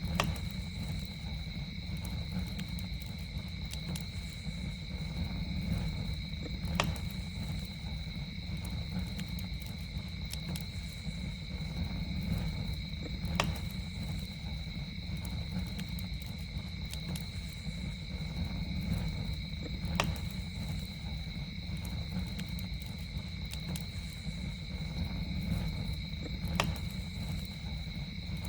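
Campfire burning with a steady low rumble and occasional sharp pops and crackles, the loudest coming about every six and a half seconds. A steady, high two-note drone runs behind it.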